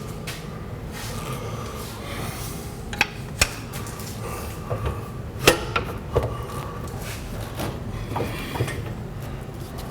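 Hand tools and steel suspension hardware clanking during leaf spring installation: two sharp metal knocks about three seconds in, a louder cluster of clanks between five and a half and six seconds, and lighter taps later.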